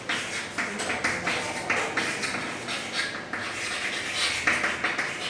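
Writing by hand: a run of short, scratchy strokes of a pen or marker, several a second, as points are written out.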